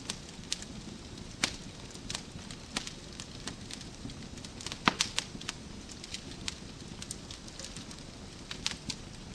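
Wood fire in a fireplace crackling: irregular sharp pops and snaps over a steady low rush of the flames, with the loudest pop about five seconds in.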